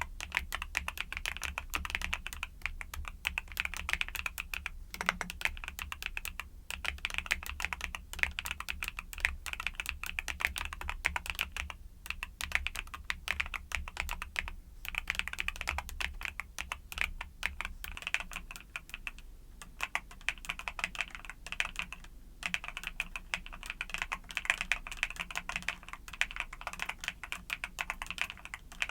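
Fast, continuous typing on a mechanical keyboard with YUNZII Cocoa Cream switches: a dense run of key clicks and clacks broken by a few short pauses.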